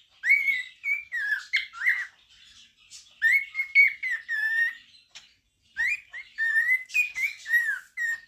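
Male cockatiel singing: warbling whistled phrases mixed with chirps, in three bursts with short pauses between them.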